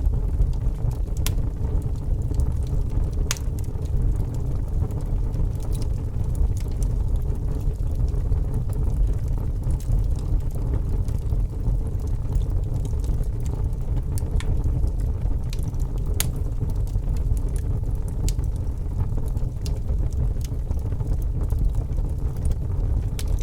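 Log fire burning in a fireplace: a steady low rumble of the flames, with sharp crackles and pops from the wood every few seconds.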